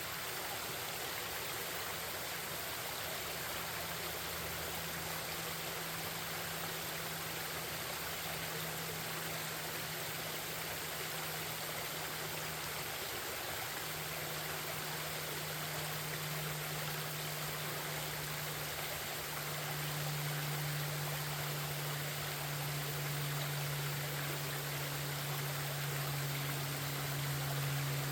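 Forest stream flowing and babbling steadily. Under it runs a low, steady hum that grows louder from about two-thirds of the way in.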